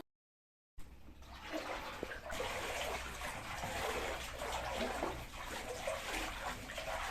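Water running and splashing steadily, starting about a second in after a moment of dead silence.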